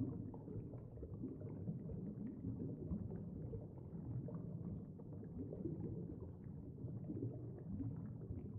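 Steady, low underwater rumble with faint crackles: the ambient water noise of a camera filming underwater.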